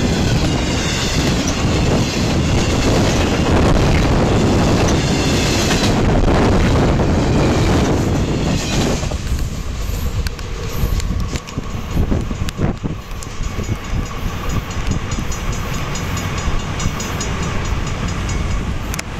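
Intermodal freight train's cars rushing past at speed with a dense, loud roar. About nine seconds in the last car goes by and the sound drops to a fainter rumble with scattered clicks as the train recedes.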